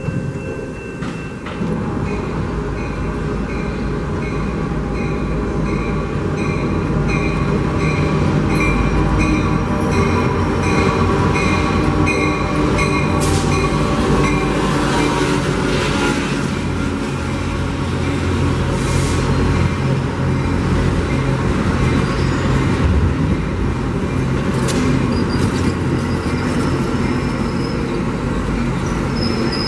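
Amtrak California passenger train with a diesel locomotive running past, its engine a steady low drone throughout. A bell rings about twice a second over the first part. Wheel clicks and squeal come in the middle.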